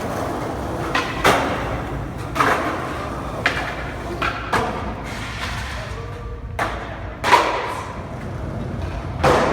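Skateboard knocks and clacks: about eight sharp hits, irregularly spaced roughly a second apart, each ringing briefly as if echoing off concrete, over a steady low rumble of wheels.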